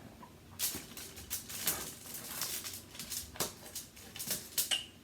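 Irregular rustling and crackling handling noises, a quick run of short crackles starting about half a second in and going on to the end.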